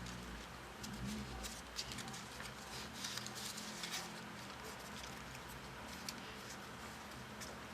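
Paper rustling, with light crinkles and small taps as folded paper origami modules are handled and fitted together.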